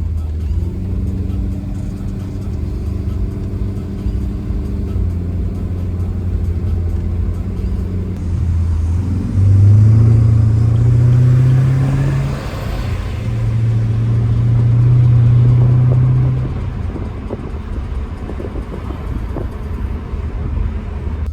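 V8 car engine and exhaust under way: a steady cruising drone, then two hard pulls with the pitch rising and the sound getting louder, split by a sudden drop at a gear change, before it eases back to cruising about two-thirds of the way through.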